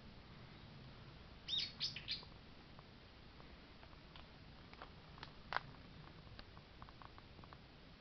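A bird calling: a quick run of three or four sharp, falling chirps about a second and a half in, then a few scattered fainter chirps and ticks.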